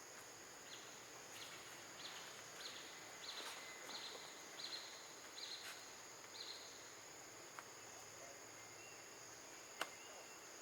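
Night insects drone steadily and faintly at a high pitch. Over the first six seconds, a run of about ten short chirps comes roughly one every two-thirds of a second, and a single sharp click is heard near the end.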